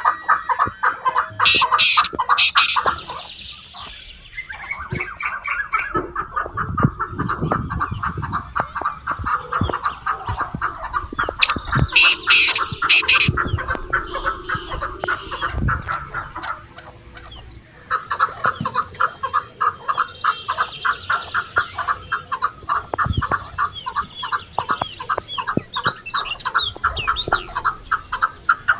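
Chickens clucking in rapid, repeated runs, with loud squawks about two seconds in and again around twelve seconds, and a short lull a little after the middle.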